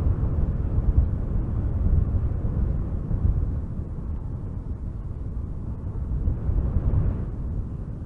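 Strong wind gusting through spruce trees: a rushing noise with a heavy low rumble that swells and eases. A gust builds about six to seven seconds in and dies down near the end.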